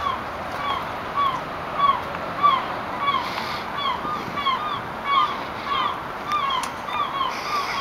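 A bird or birds calling repeatedly, short calls each rising then falling in pitch, about two a second, over steady outdoor background noise.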